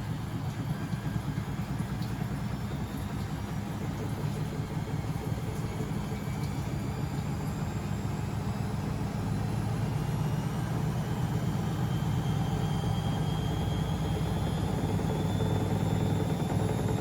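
Beko WML 71433 NP washing machine speeding its drum up. A low rumble runs under a motor whine that rises slowly in pitch and grows steadily louder, typical of the drum accelerating into a spin.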